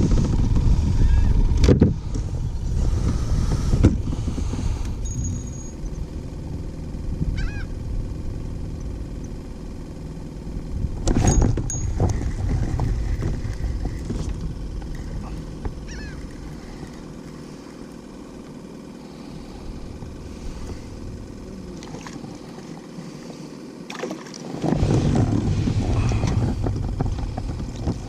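Steady low rumble of wind and water around a fishing kayak, with a few sharp knocks from the hull or gear. Now and then a faint short bird call.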